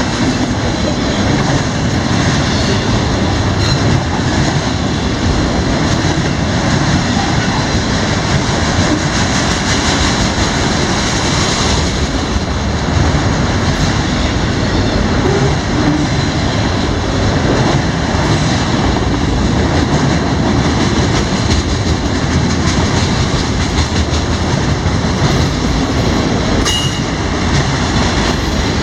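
Freight train cars rolling past at close range, a steady loud rumble of steel wheels on rail.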